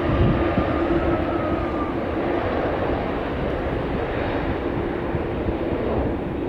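Jet airliner engines running with a steady rumble and a thin whine. The higher part of the whine fades out about two seconds in.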